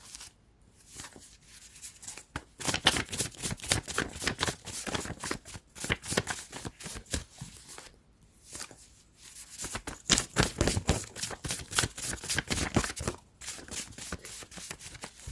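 Tarot cards being shuffled by hand in two long runs of rapid card flicks, the second run starting about ten seconds in.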